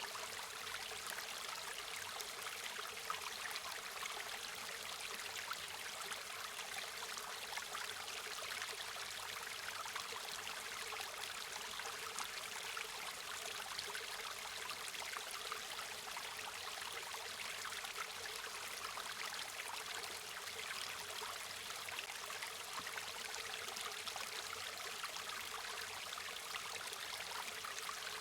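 River water flowing and babbling, a steady rush mostly in the middle and high range with fine flickering splashes.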